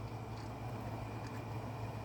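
Steady low hum with a faint, steady high-pitched whine above it; no distinct events.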